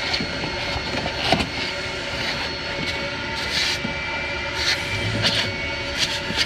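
Automatic car wash running, heard from inside the car's cabin: a steady mechanical rumble and hiss from the spray and brushes, with irregular brief swishes and knocks.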